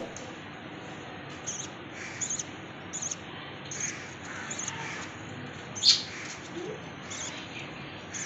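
Lovebirds chirping: short, high chirps repeating about once a second, with one louder call about six seconds in.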